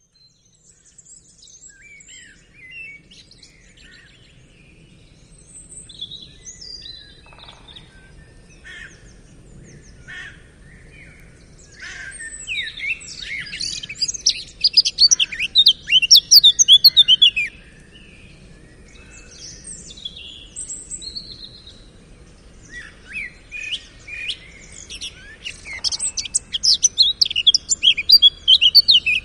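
Songbirds chirping and singing in quick, overlapping high calls, sparse at first, then loud and dense in two long stretches, one about halfway through and one near the end.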